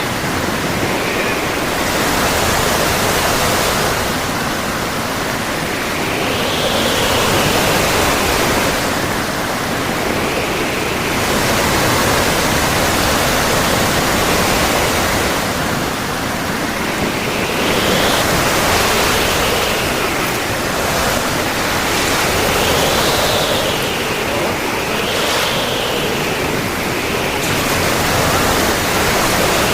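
Rough, storm-driven sea surf breaking on the shore, whipped up by a cyclone: a loud, steady rush that swells and eases every few seconds as the waves come in.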